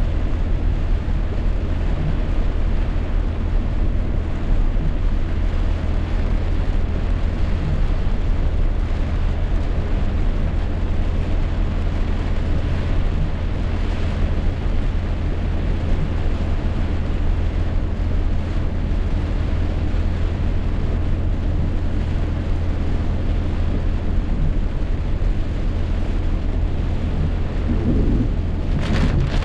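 Heavy rainstorm: steady downpour with wind rumbling on the microphone.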